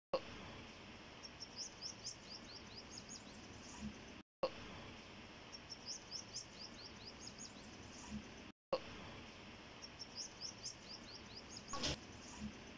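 A bird singing a run of quick, high, downward-sliding chirps over steady outdoor background noise. The same few seconds repeat three times, with a brief dropout between each.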